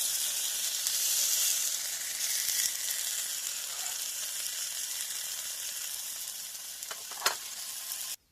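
Pork loin sizzling as it fries, a steady sizzle with one sharp click near the end before the sound cuts off suddenly.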